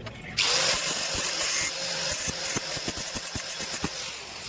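Gas torch flame starting with a sudden loud hiss about half a second in and burning steadily, heating a seized washing-machine motor to free its jammed pulley, with a few light knocks underneath.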